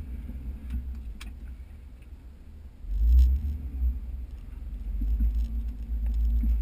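Jeep Wrangler engine and drivetrain running at low speed, heard as a deep rumble through the hood, swelling about three seconds in and again near the end as the Jeep pulls through the mud.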